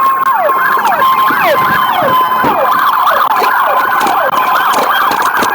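Police car sirens blaring together: one sweeping down in pitch about twice a second while another warbles rapidly.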